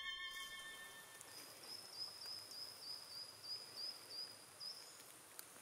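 Faint woodland ambience: a small songbird repeats a thin, high note about three times a second over a soft outdoor hiss, while a violin fades out in the first second.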